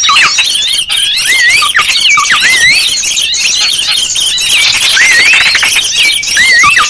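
Recorded calls of small birds used as a lure call: a dense, loud chorus of quick looping whistled chirps repeated over and over, over a constant high twittering.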